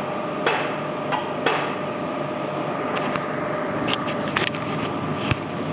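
A D49 diesel locomotive fuel injector is being pressure-tested on a hand-pumped test stand after its opening pressure was set to 320 on the gauge. Sharp clicks and knocks come about a second apart at irregular spacing, over a steady machine hum with two fixed tones.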